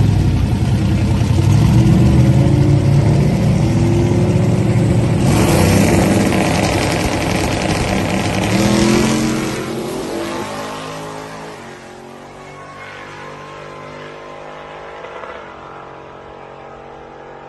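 Drag car's engine running hard at full throttle, loud at first with its pitch rising and falling through the revs. After about ten seconds it fades away, its pitch sliding lower as it pulls off into the distance.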